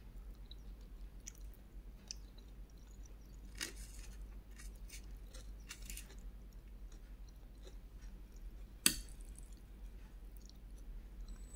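Chewing and mouth sounds of someone eating a meal of rice, fried egg and tomato, with scattered soft clicks and one sharp click about nine seconds in, the loudest sound.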